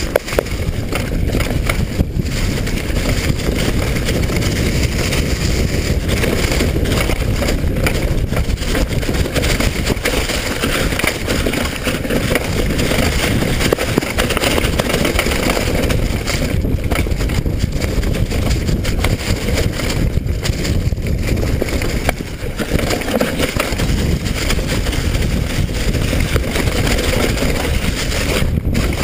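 Steady loud rush of wind over an action camera's microphone, heaviest in the low end, with a few brief dips.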